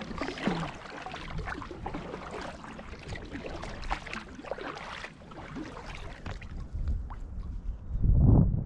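Water splashing and sloshing around a kayak, with irregular light knocks, as it is paddled. A loud low rumble comes near the end.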